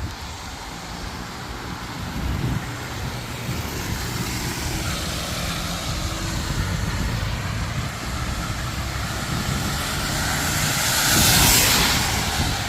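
Street traffic on a rain-wet road, with engines rumbling steadily. Near the end a vehicle passes close, its tyres making a rush of hiss on the wet surface that swells and then fades.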